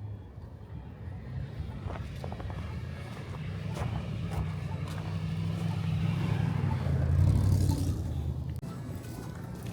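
A motor vehicle's engine passing close by, getting louder to its loudest about seven seconds in, then fading.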